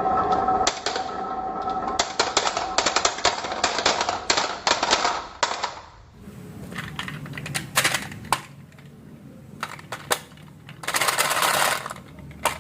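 Marbles clattering down a wooden marble run: a dense run of rapid clicks and clacks for about the first half, then scattered single clacks and a short rattling burst near the end.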